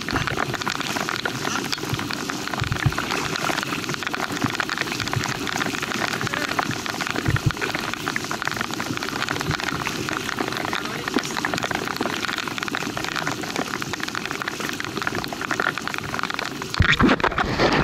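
Heavy rain falling on open water: a dense, steady hiss of countless drops. It grows a little louder near the end.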